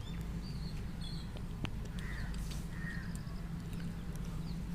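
Faint bird calls over a steady low hum: two short harsh calls about two and three seconds in, thin high chirps around them, and one small sharp click.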